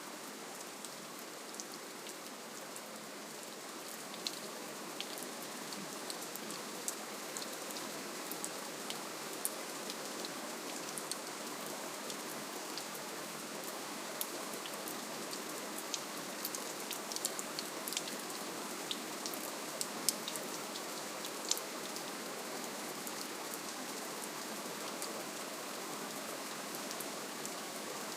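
Soft, steady rainfall: an even hiss scattered with many small, sharp ticks of single drops.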